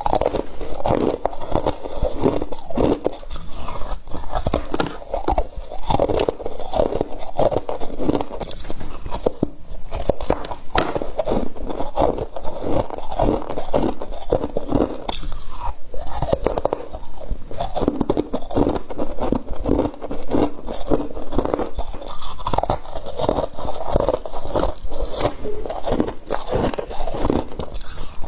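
Frost being bitten and chewed close to the microphone: a dense, continuous run of crisp crunches with some scraping.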